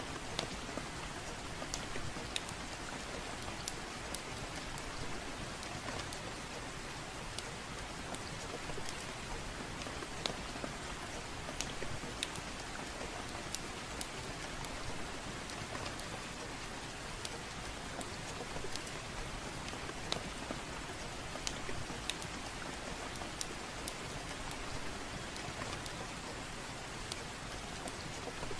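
Soft rain falling steadily, mixed with a wood fire crackling in a fireplace: scattered sharp pops and ticks over an even hiss.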